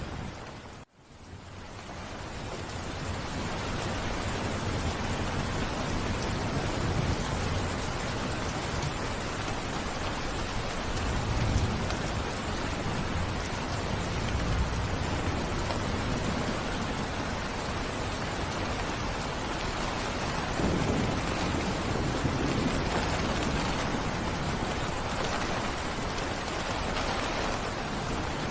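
Heavy rain falling steadily, with low rumbles of thunder now and then. The sound cuts out briefly about a second in and fades back in.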